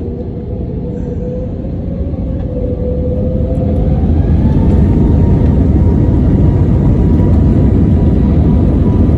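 Airliner engines spooling up to takeoff power during the takeoff roll, heard from inside the cabin. A whine rises in pitch over the first few seconds while the heavy rumble grows louder, then both hold steady at full power.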